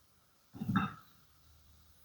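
A single soft knock of kitchenware, a utensil or dish touching another, with a faint ring, about half a second in.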